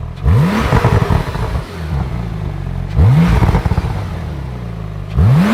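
Supercar engine revved three times from idle: each blip climbs quickly in pitch and falls back to idle, about every two and a half seconds.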